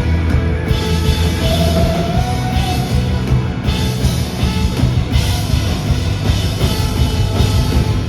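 Live rock band playing loud: drum kit, bass and electric guitars, with a held guitar note in the first few seconds.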